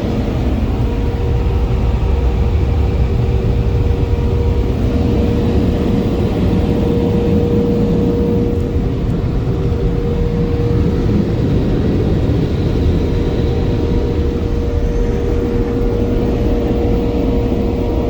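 Car wash tunnel dryer blowers running: a loud, steady rush of air with a steady hum.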